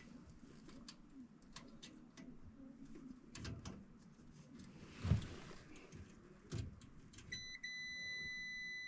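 Light clicks and knocks of handling on furnace parts, then about seven seconds in a multimeter's continuity beep, a steady high tone, showing the limit switch under test is closed.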